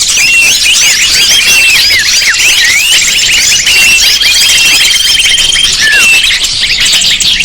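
A dense chorus of many small songbirds chirping and twittering at once, overlapping calls sweeping up and down, played as a bird-lure recording. A rapid, even trill runs through the middle.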